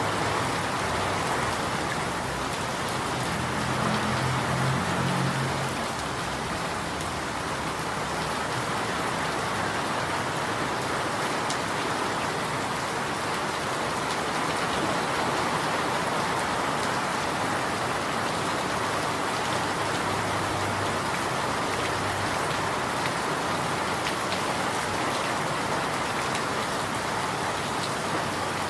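Steady rain falling, an even hiss of drops on surfaces. A low rumble rises under it a few seconds in and fades, with a fainter one later.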